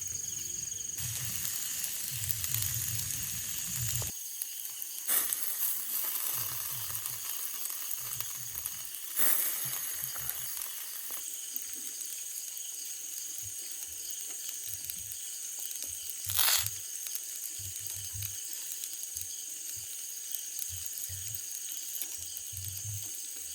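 Chicken grilling on a wire grate over a campfire, sizzling steadily as its fat drips into the flames and flares up, with a few sharp pops.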